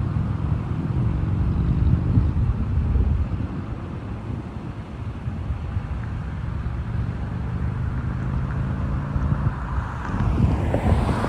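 Motor vehicle engines running, a low steady drone with some wind on the microphone. Near the end a vehicle passes close by, its noise swelling up and then falling away.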